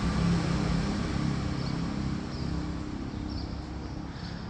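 A motor vehicle's engine passing by, a low hum that slowly fades away.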